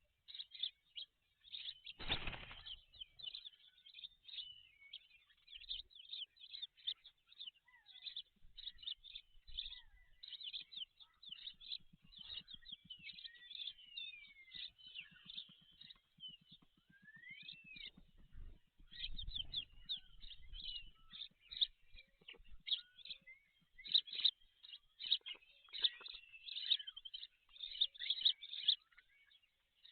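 Birds chirping rapidly and continuously, with short high chirps and a few gliding notes throughout. About two seconds in there is a brief loud rustle or thump, and a low buzzing rattle runs through the middle stretch.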